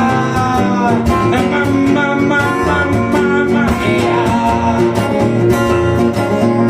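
Song accompaniment led by acoustic guitar, playing steadily between sung lines.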